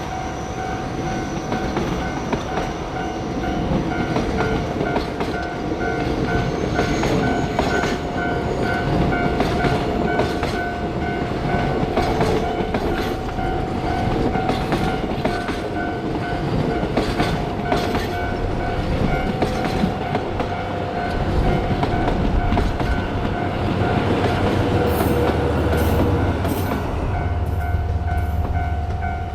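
Freight train rolling through on the Sekihoku Line, its wheels clicking over the rail joints, with a steady ringing tone and a pulsing higher tone throughout. A heavier low rumble builds over the last few seconds.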